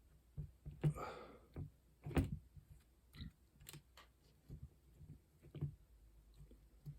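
Scattered light clicks and taps from handling the floppy drive's small metal and plastic parts, with a short scrape or rustle about a second in.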